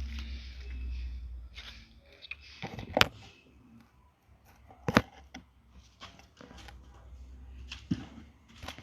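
Scattered handling knocks and rustling, with two sharp knocks about three and five seconds in and a low rumble during the first second or so.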